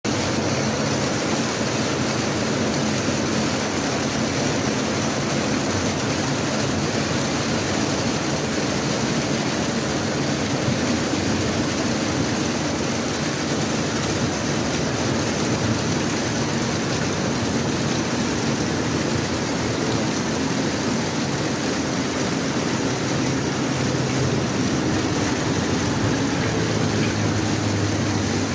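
Heavy rain pouring down in a downpour: a steady, dense hiss that holds evenly throughout.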